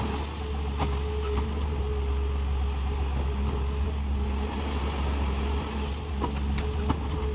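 Heavy diesel engine of construction machinery running steadily with a low drone and a faint steady whine, with a few light knocks.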